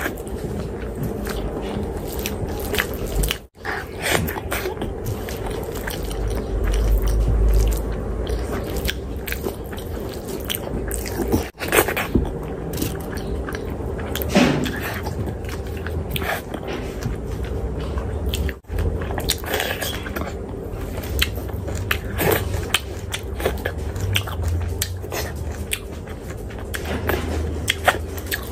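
Close-miked wet chewing and smacking of mouthfuls of rice and curry eaten by hand, with squelching as fingers knead the rice into the gravy. The sound drops out briefly three times.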